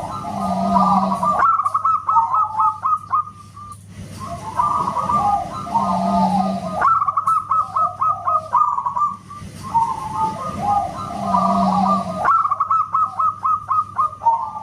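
Zebra dove (perkutut) song: a phrase of cooing notes ending in a quick run of short clipped notes, repeated the same way about every five and a half seconds, three times.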